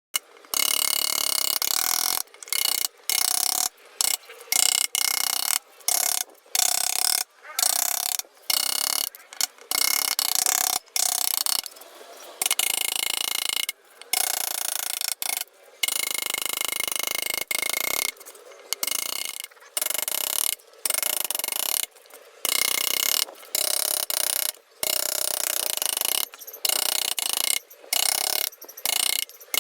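Wood being carved with a chisel: short bursts of a rasping, ratchet-like cutting sound, one after another, each stopping abruptly.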